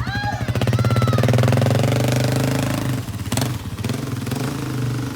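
ATV engine revving and holding its revs, then easing back to idle about three seconds in, with a short sharp click just after.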